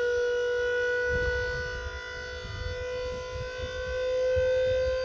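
Hydraulic pump of a dump truck's scissor hoist running with a steady whine as the dump bed is lowered, its pitch creeping slightly higher.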